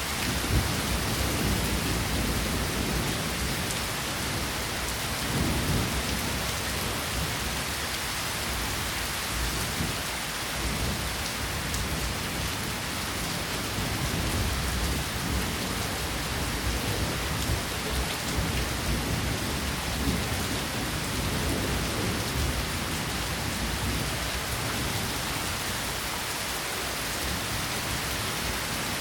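Steady rainfall, a constant hiss of drops on surfaces, with low rumbling swells coming and going underneath.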